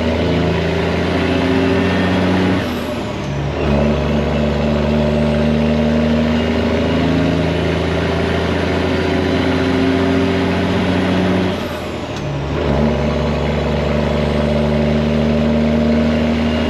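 Semi truck's Detroit diesel engine pulling under load through loud pipes, its note climbing steadily as it gathers speed. About three seconds in and again about twelve seconds in it goes briefly quieter and the note drops as the driver upshifts, then it pulls again.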